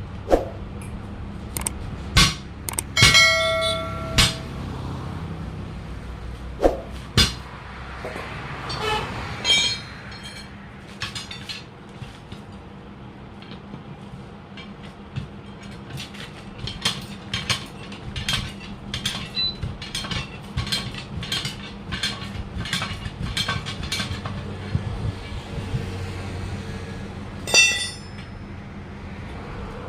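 Tools striking the steel wheel of a truck while its tyre is being taken off. Some hits ring out loudly, and a run of quicker strikes comes at about two a second. A steady low hum runs underneath.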